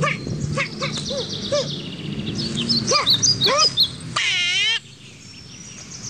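Animal calls, mostly birdlike: a string of short arched chirps, two to three a second, with higher twittering over them. About four seconds in comes a wavering call that cuts off abruptly.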